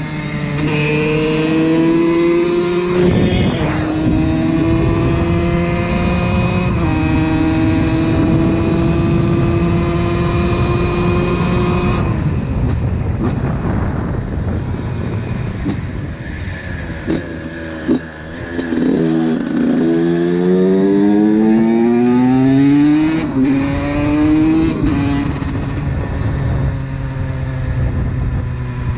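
Honda CR125 125cc two-stroke single-cylinder engine accelerating up through the gears, its pitch rising and dropping at each shift. About twelve seconds in it backs off and the revs fall away, with a few short throttle blips. It then pulls hard through the gears again before settling to a steadier pitch near the end.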